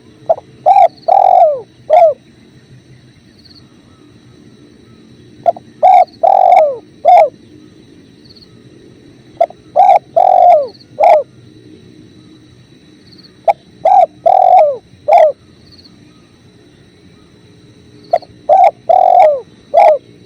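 Spotted dove (tekukur) cooing: a phrase of four or five low notes, repeated five times about every four seconds. The calls sit over the steady low rush of river water.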